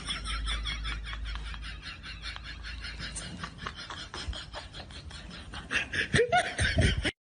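A person laughing in quick repeated bursts, fading in the middle and loudening again near the end, then cutting off suddenly about seven seconds in.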